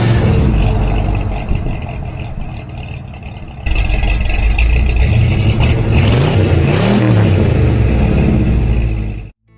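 Classic car engine running loud, with throttle blips that make the pitch rise and fall. The sound jumps abruptly about three and a half seconds in, then cuts off sharply just before the end.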